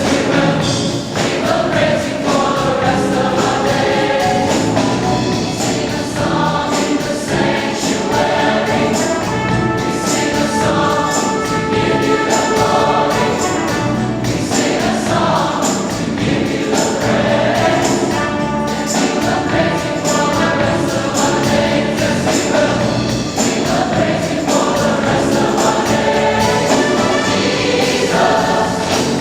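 Choir singing gospel music with instrumental accompaniment.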